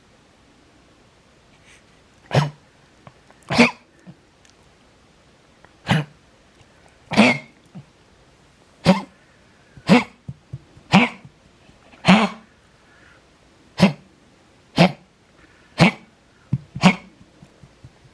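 An elderly dog, believed to be a King Charles spaniel mix, coughs in a prolonged bout: about a dozen short, sharp coughs roughly one a second, starting about two seconds in. It is the cough of congestive heart failure, with an enlarged heart and fluid in the lungs.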